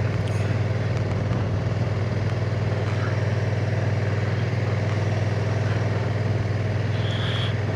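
Honda NT1100's parallel-twin engine running steadily at an even speed while riding, with an unchanging hum under wind and road noise.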